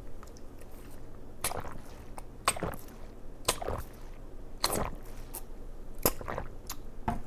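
Wet, squishy smacking sounds of eating, about six short smacks roughly a second apart.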